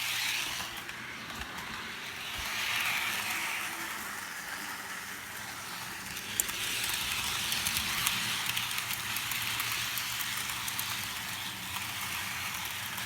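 HO-scale model train running along the track: a steady whirring hiss from its small electric motor and wheels that swells and fades as it moves, with a few faint clicks.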